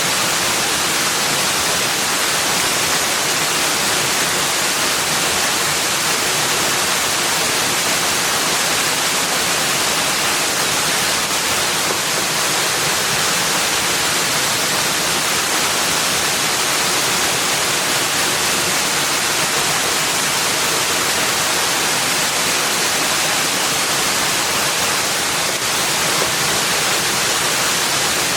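Steady, unbroken rushing noise, like falling water, even in level throughout, with no separate sounds standing out.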